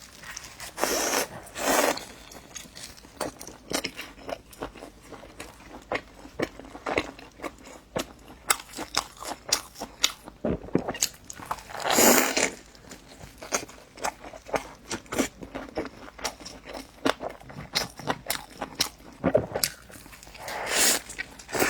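Close-up eating sounds: a person biting into and chewing a crisp fried dough cake (youbing) wrapped around egg, with crunchy bites about a second in, around the middle and near the end, and many small wet mouth clicks from chewing in between.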